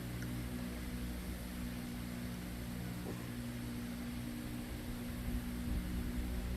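Steady low mechanical hum made of several even pitches under a constant hiss, with a faint click about three seconds in.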